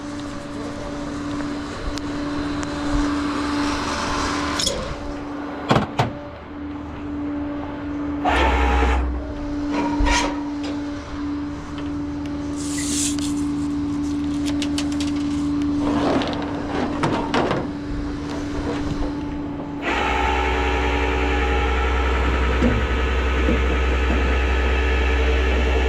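Tow truck running while a vehicle is being hooked up, with a steady whine and scattered metal clanks and a brief squeal. About twenty seconds in, the engine note steps up suddenly and stays louder.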